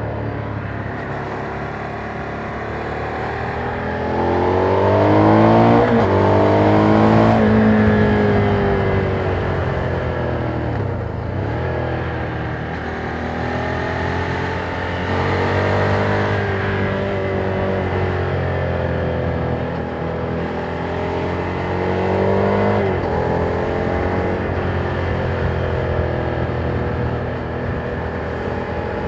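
Ducati Monster 797's air-cooled L-twin on its stock exhaust, heard from the rider's seat, pulling through the gears: the revs climb and drop sharply at a gear change about six seconds in, fall away as the throttle closes, rise again, and drop at another shift about three quarters of the way through.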